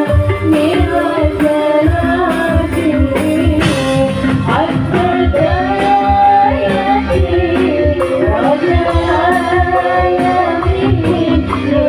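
A song with a singing voice over a steady drum beat and bass, played loud through a large sound system during a sound check.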